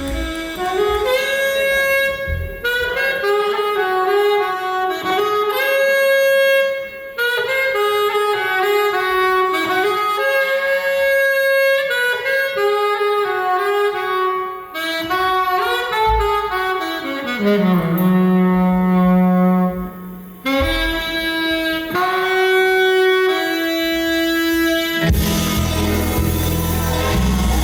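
Saxophone playing an unaccompanied solo line of short melodic phrases, with one long low held note about two-thirds through. Near the end the full band comes back in with drums and bass.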